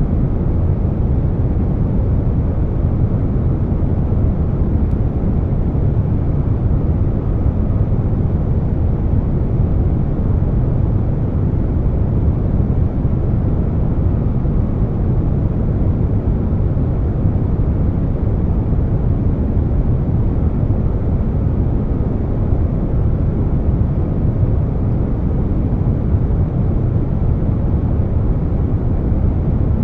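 Air conditioner running steadily, blended with brown noise: an even, deep noise weighted toward the bass, with no changes or interruptions.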